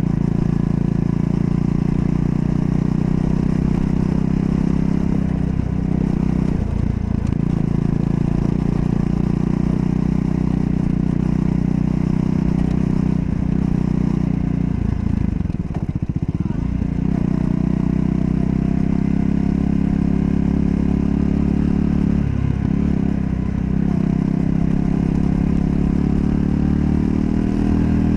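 Triumph Scrambler 400 X's single-cylinder engine running steadily while riding. The engine note dips briefly and comes back up several times, most clearly about 6, 16 and 22 seconds in.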